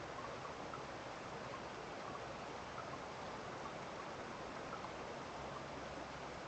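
Steady rush of flowing water after rain, an even hiss with no change in level, with faint short ticks like drips scattered through it.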